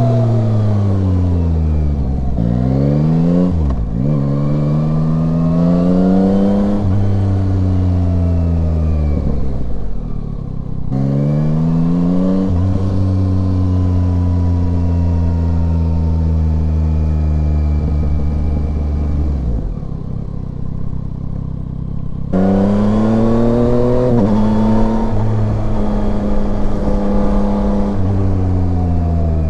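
Yamaha Tracer 9's 890 cc inline-three engine under way, recorded on the motorcycle: the revs climb and drop again several times as it accelerates and shifts, hold fairly steady for several seconds in the middle, then pick up sharply about two-thirds of the way through.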